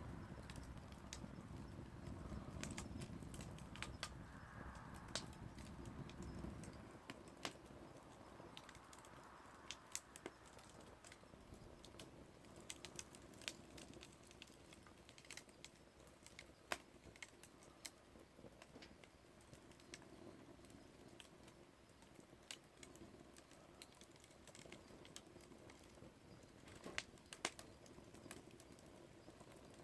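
Wood bonfire crackling faintly, with irregular sharp pops and snaps. A low rushing noise fades out about six seconds in.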